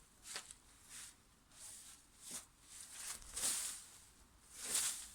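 A series of soft, irregular rustling swishes, about one a second, with the two loudest near the end.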